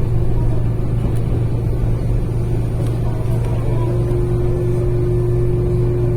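Running noise of a commuter train heard from inside the passenger car: a steady low rumble. About four seconds in, a steady hum joins it.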